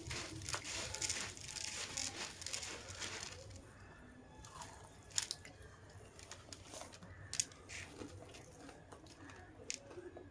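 Someone chewing crunchy food close to the microphone. There is dense crunching for the first three seconds or so, then quieter chewing with a few sharp crunches.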